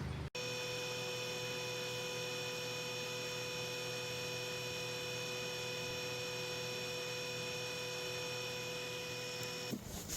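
Steady electrical hum with several high, even whining tones over it, starting abruptly and holding unchanged until it breaks off near the end.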